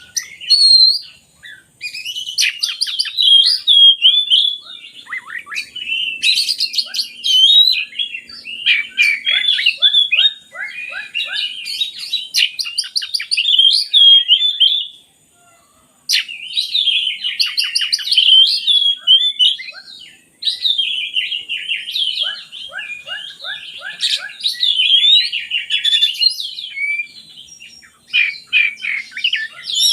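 Oriental magpie-robin (kacer) singing a long, varied song of quick whistled phrases and fast trills, with a brief pause about halfway.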